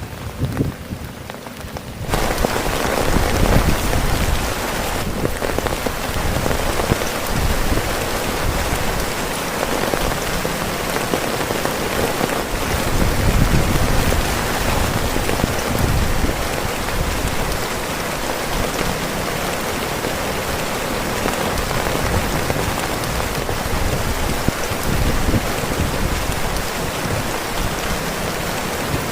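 Heavy rain pattering and drumming on a tent, a dense steady hiss that jumps abruptly much louder about two seconds in and stays heavy.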